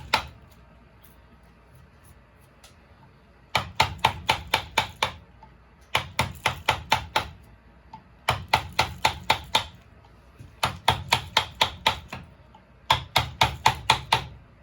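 Quick sharp knocks of a mallet driving a wood-carving chisel, struck in runs of about eight blows with short pauses between them.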